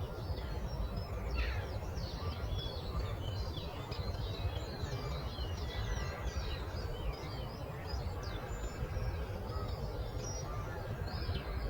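Many birds chirping and singing at once, a continuous overlapping chorus of short high chirps and whistled glides, over a steady low rumble.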